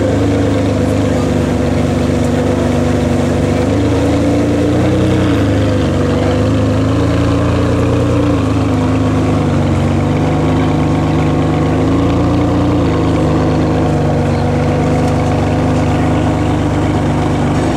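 Ferrari 599 GTB Fiorano's V12 engine idling steadily at close range, its pitch rising and falling slightly a few times.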